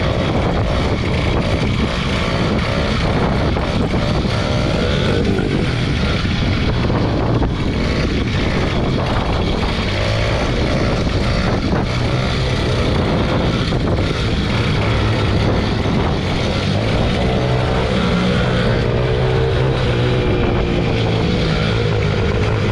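Small motorbike engine running while being ridden, its pitch rising and falling with the throttle over a constant rushing noise.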